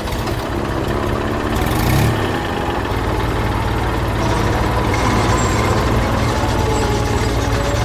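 Heavy vehicle engine running with a steady low rumble that grows a little louder after about two seconds, with a short hiss around then.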